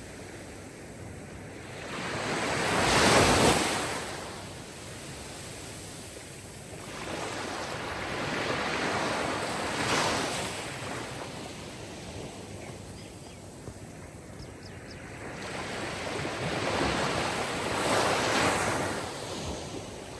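Sea waves breaking and washing onto a shore: three swells of surf that rise and fade away, about seven to eight seconds apart.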